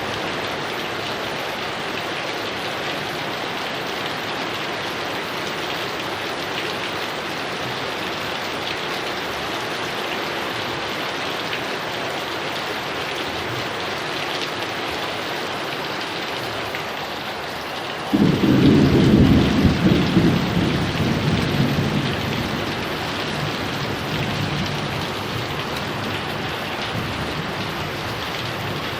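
Heavy rain falling steadily. About two-thirds of the way through, a sudden loud clap of thunder breaks in and rumbles away over several seconds.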